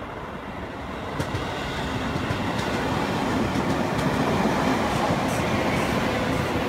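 Electric commuter train running into a station, growing louder over the first few seconds as the cars draw alongside. The wheels clack over rail joints every second or so.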